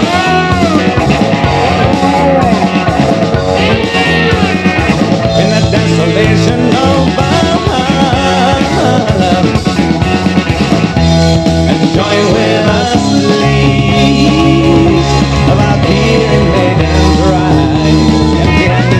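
A rock band's recording, played from a vinyl record, in a loud instrumental passage without vocals.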